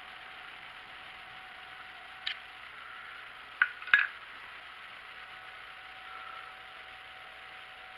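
Steady hum from the drilling machine with a few sharp metallic clicks, once a little after two seconds and twice close together about a second later.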